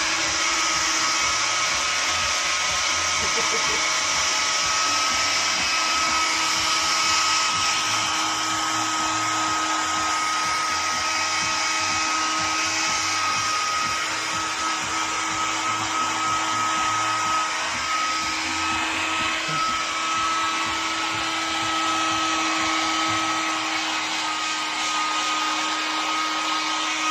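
Handheld hairdryer running steadily, a loud even blowing noise with a constant motor whine.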